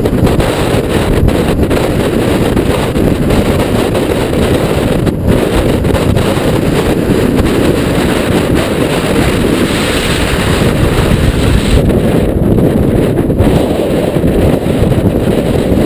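Strong wind buffeting the microphone, a loud, steady low rumble that covers everything else.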